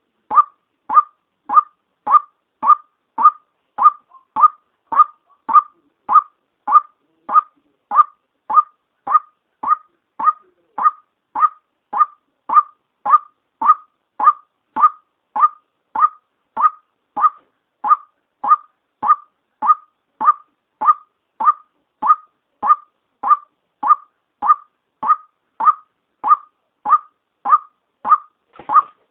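White-breasted waterhen call, the female's voice: one short note repeated at a steady pace of about two a second. It is a lure call, used to draw waterhens in.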